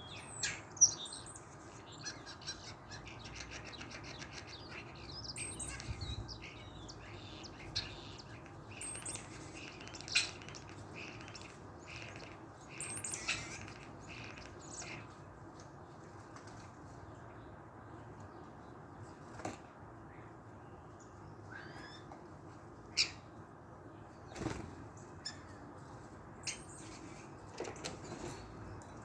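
Small birds chirping and twittering in short high calls and rapid trills, busiest in the first half, with wing flutters and a few sharp clicks, the loudest about a second in.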